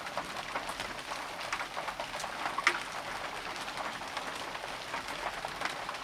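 Steady rain falling, with many separate drops hitting close by at irregular moments, one sharper drop about two and a half seconds in.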